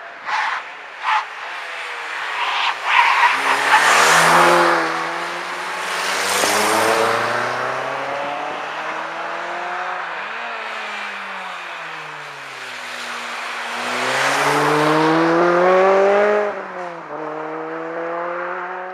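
Two cars driven hard on test runs, one after the other: engines revving up and falling back with each gear change, with a few sharp bangs in the first few seconds.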